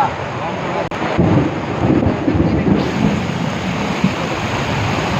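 Pouring rain hissing steadily, with an uneven low rumble running through it.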